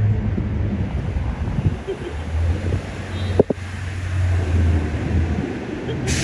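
A vehicle engine running with a steady low hum, mixed with wind noise on the microphone; a single sharp click about three and a half seconds in.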